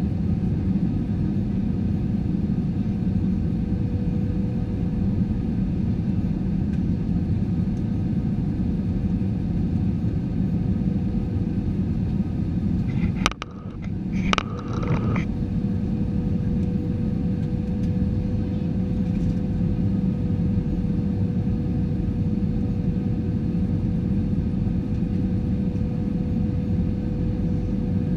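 Cabin noise of an Airbus A320-214 in flight: the steady rumble of its CFM56 engines and the airflow, with a faint steady hum above it. About halfway through, a sharp click and a brief dip in the noise break in, and then the rumble carries on.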